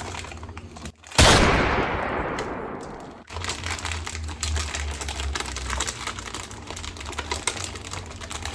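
Plastic snack wrappers crinkling in rapid crackles. About a second in, a sudden loud bang dies away over about two seconds.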